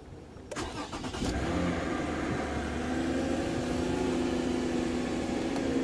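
A car's V6 engine is started from cold. The starter cranks briefly about half a second in, and the engine catches about a second later and settles into a steady cold fast idle, heard from inside the cabin.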